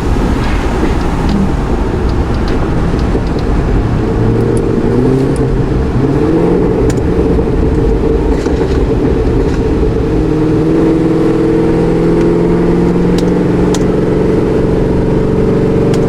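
Cammed, supercharged 6.2-litre LT4 V8 of a 2026 Cadillac Escalade-V. It runs with a choppy note, rises in pitch as it pulls about four seconds in, then settles into a steady drone from about ten seconds.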